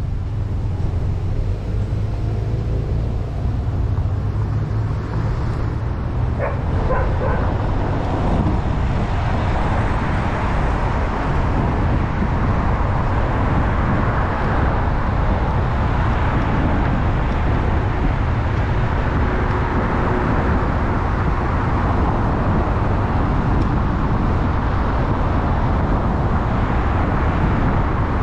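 Steady road and engine noise of a car being driven, heard from inside the car. A brief sharp sound comes about six seconds in.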